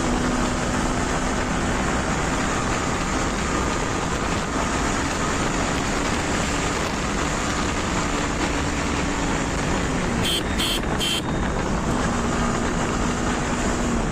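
Wind rush and road noise on the microphone of a motorbike being ridden at speed, with a faint engine hum underneath. About ten seconds in come three short high-pitched beeps.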